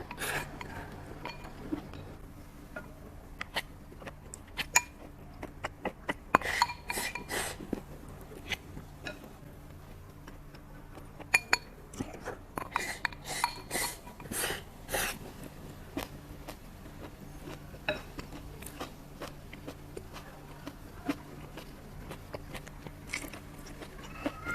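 Eating utensils clicking and clinking against dishes in scattered clusters, over a steady low hum.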